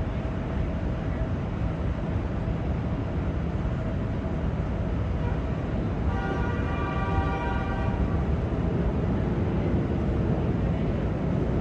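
Steady low rumbling background noise, with one held horn-like tone lasting about two seconds near the middle.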